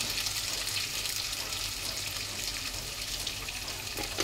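Masala of onion and ginger-garlic paste frying in oil in an aluminium pot: a steady sizzle, with a light click near the end.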